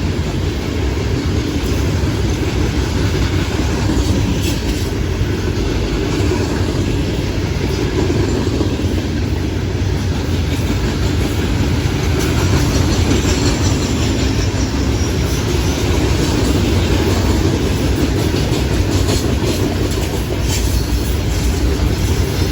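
Loaded rock cars of a Florida East Coast Railway freight train rolling past: a steady low rumble of wheels on rail with occasional clicks.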